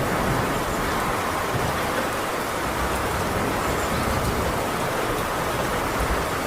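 Steady heavy rain drumming on a tin roof, with a low rumble of thunder underneath.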